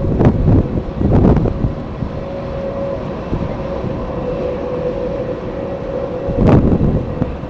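Jet airliner engines running steadily with one held tone over a low rumble, buffeted by strong wind gusts on the microphone: once at the start, again about a second in, and once near the end.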